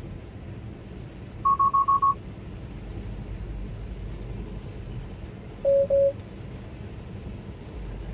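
Tesla cabin alert chimes: a quick run of five short high beeps, then a few seconds later two short lower beeps. A steady low rumble of the car's road and cabin noise runs underneath.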